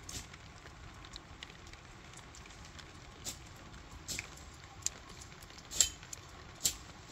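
Steady light rain, with sharp taps coming roughly once a second from about three seconds in, the loudest a little before the end.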